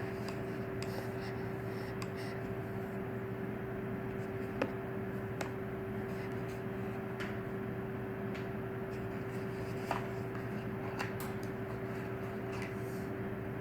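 Scattered light clicks and taps of hands handling a new smartphone's box and packaging, over a steady background hum.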